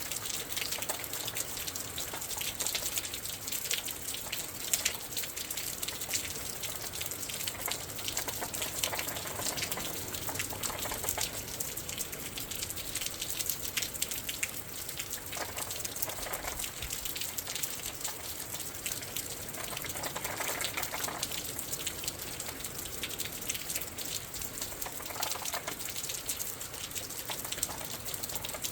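Steady rain falling in the wind, with many close drops pattering and splashing. A few brief louder swells of rushing water or wind come through partway in and later on.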